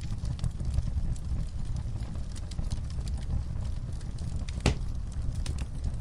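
Wood fire in a fireplace crackling, with a low steady rumble of the flames under many small snaps and one louder pop near the end.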